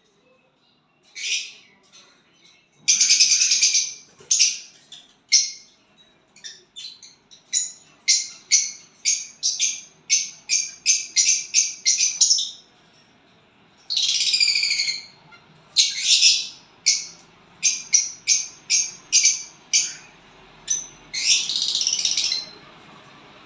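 A small bird calling: a string of short, sharp chirps, coming about three a second at their quickest. Three longer, harsh, raspy calls come about three seconds in, around fourteen seconds and near the end.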